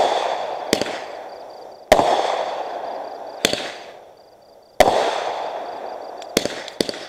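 Aerial fireworks bursting overhead: a string of loud bangs a second or so apart, each trailing off in echo, then a quick run of sharp crackling pops near the end.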